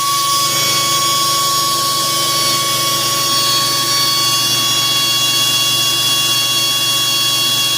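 A DIY tool post grinder running steadily on the lathe, grinding down TIG-welded 308 stainless fill on a harmonic balancer. It gives a steady high whine over an even hiss, with no pauses.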